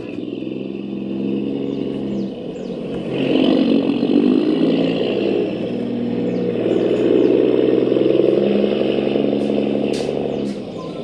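Radio-controlled model trucks running, with a steady engine-like drone that grows louder about three seconds in and again later, and a couple of sharp clicks near the end.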